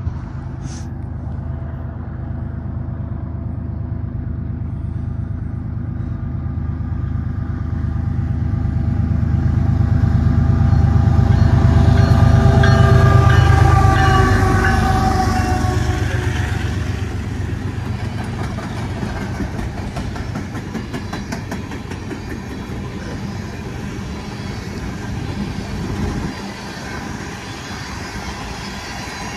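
Freight train led by a BNSF GE ES44AC diesel locomotive, with more diesel units behind it, passing close by. The low engine rumble builds as the train approaches and is loudest about 13 seconds in as the locomotives go by, with a high whine that drops in pitch as they pass. It then gives way to the rattle and steady clickety-clack of empty coal gondolas rolling over the rails.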